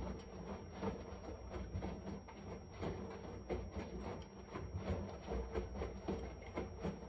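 Washing machine running: a steady low rumble with frequent, irregular small knocks and clicks, and a thin high whine held throughout.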